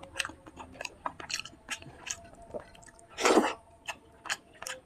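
Close-miked mouth sounds of eating a fish curry, fried fish and rice meal: a run of short, wet chewing clicks and lip smacks, with one louder, longer noisy burst about three seconds in.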